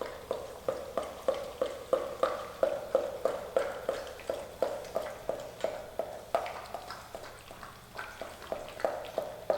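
A dog lapping water from a bowl, about three laps a second, thinning out briefly after the middle before picking up again.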